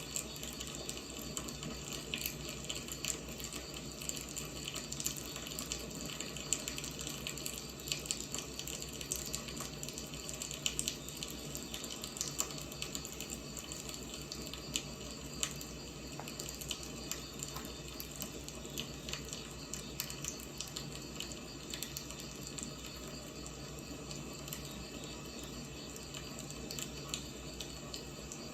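Wood fire burning steadily, with a continuous hiss and frequent irregular crackles and pops from the burning logs.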